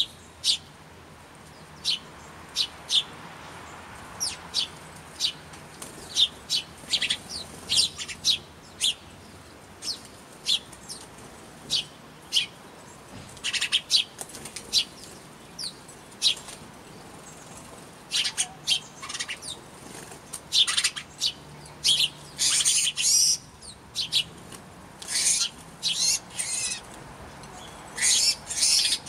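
Small birds chirping in many short, sharp calls, now single, now in quick clusters, with wing flutters, as they squabble over food.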